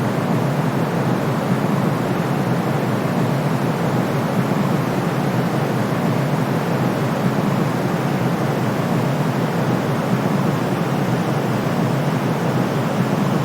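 Steady, unchanging white-noise sleep sound: an even, deep hiss, fullest in the low-middle range and softer in the treble, with no rises, breaks or rhythm.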